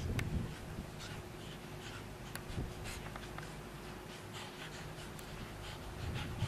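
Dogs moving about in snow: soft, scattered scratching and crunching sounds, with a faint steady hum underneath.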